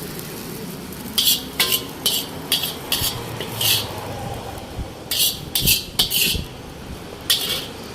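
Metal ladle scraping and clanking against a wok as chicken fried rice is stirred and tossed, in about nine short, irregular strokes.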